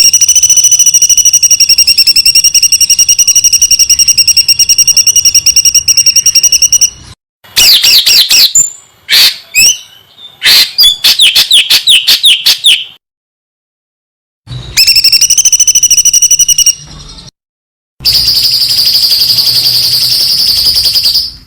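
Songbird song spliced from several recordings: a fast, high, steady trill for about seven seconds, then a run of rapid sweeping notes, then two more short high trills near the end. Each clip starts and stops abruptly, with silent gaps between them.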